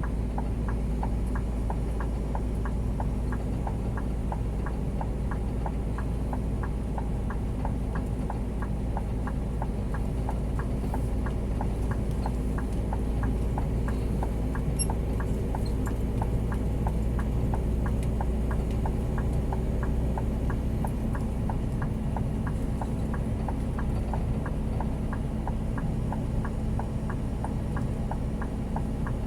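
Scania G 410 truck's six-cylinder diesel engine running with a steady drone, with a regular ticking of about two clicks a second over it.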